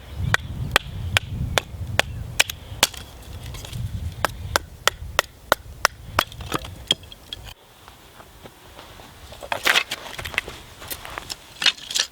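Blade repeatedly striking wood to make kindling, a steady run of sharp knocks about two to three a second. After a pause, a few scattered cracks and knocks of wood.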